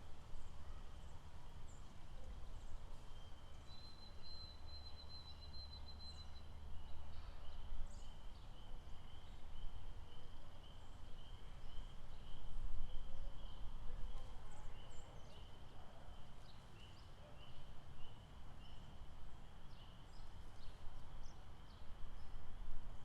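Outdoor lakeside wildlife ambience: a high pulsing animal call repeating about twice a second through most of the stretch, with a steady high buzz for a couple of seconds near the start and scattered short bird chirps, over a low rumble.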